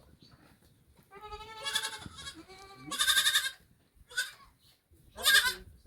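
Goats, Boer crossed with local Ugandan breeds, bleating about four times with a wavering pitch. The bleats at about three seconds and five seconds in are the loudest, and the one near four seconds is short.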